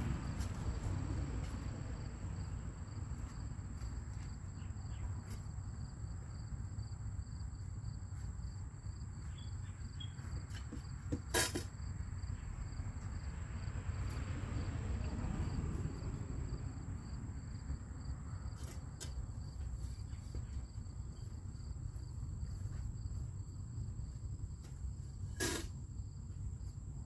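Insects, likely crickets, trilling steadily as a high continuous tone with a second pulsing trill, over a low outdoor rumble. Two sharp knocks, one about eleven seconds in and one near the end, are the loudest sounds.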